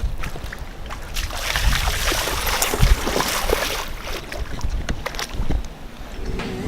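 Outdoor wind rumbling on the microphone, with a rushing hiss that swells for a few seconds in the middle and a few light clicks. Music comes in near the end.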